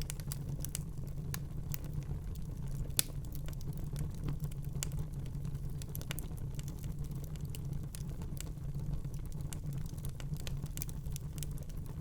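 Wood fire burning in a fireplace, with a steady low rumble of the flames and frequent small irregular crackles, one sharper pop about three seconds in.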